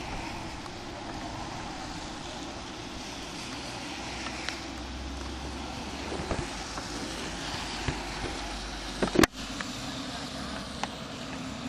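Yamaha XTZ 125 single-cylinder motorcycle engine running while riding, with steady wind rush on the microphone. A single sharp knock about nine seconds in.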